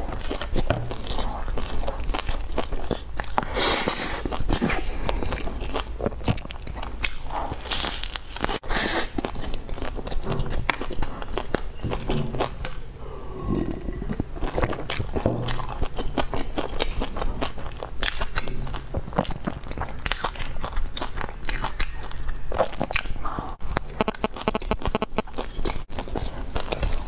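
Close-miked biting and chewing of a cheese-filled bun crusted with meat floss and seaweed: steady crunchy, wet mouth sounds. About halfway through, the chewing pauses briefly for a sip of drink.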